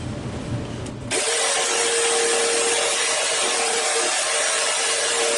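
Small Blade Runner tabletop saw switched on about a second in and cutting wood, a steady motor whine under loud blade noise.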